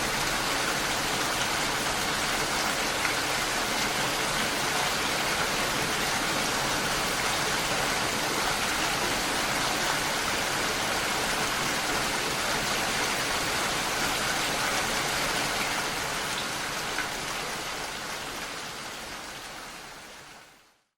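Steady rain falling, fading out over the last few seconds.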